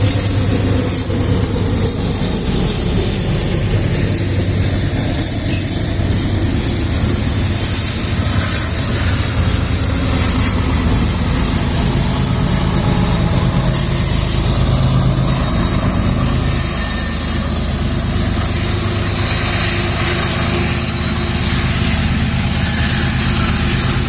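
Loaded freight train carrying pulp: a diesel locomotive's engine running steadily under a continuous high hiss, with no breaks.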